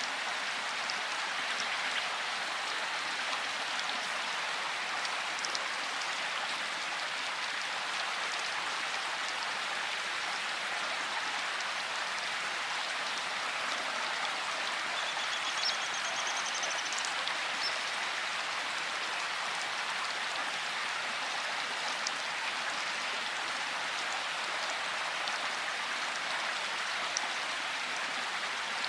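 Steady rain shower falling on surfaces: an even hiss of rain with occasional distinct drop taps.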